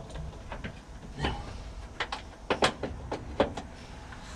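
Trailer electrical suzie plug being connected at the back of a truck cab: a handful of short clicks and knocks over a low steady rumble.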